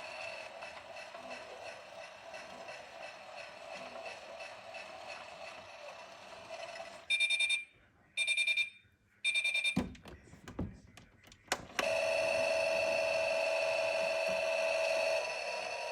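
Miele washing machine running with a steady hum that stops about 7 seconds in, followed by three short beeps and a few sharp clicks. It then starts running again, louder, and eases down a little near the end.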